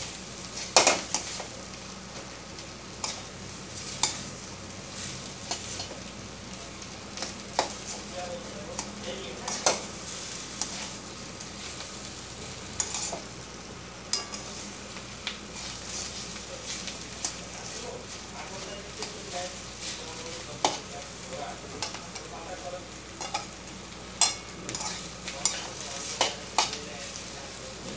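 Potato and prawn filling frying in a metal kadai with a steady sizzle, while a metal spatula stirs it, scraping and knocking against the pan at irregular moments every second or so.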